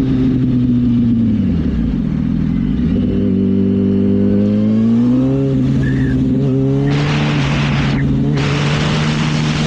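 Sport motorcycle engine, its pitch dipping and then climbing as the bike pulls away, then holding steady. Twice near the end a rushing hiss comes in over the engine.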